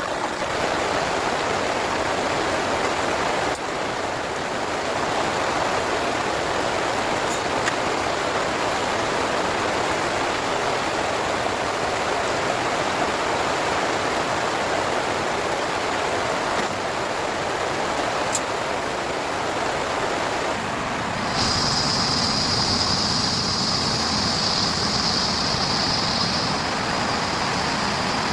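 Heavy rain falling steadily, a dense even hiss. About 21 seconds in the sound changes abruptly and a steady high-pitched hiss joins it.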